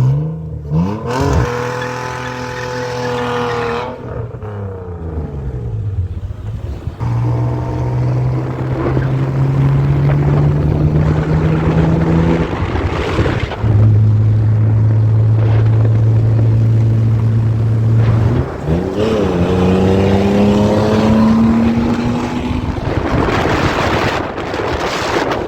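BMW E46 328i's straight-six engine revved hard: the revs shoot up about a second in, hold, then drop away, then climb and hold steady for several seconds, with another sharp rise about three quarters of the way through. A constant rushing noise runs underneath.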